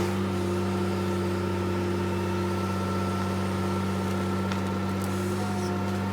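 Heavy diesel engine running steadily at a constant speed, with a deep even hum and a faint steady whine above it.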